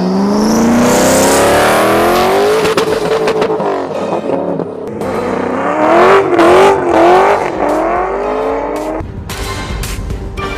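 High-powered car engine at full throttle, its pitch climbing hard and dropping back at each gear change, wavering briefly midway, until the sound cuts off near the end.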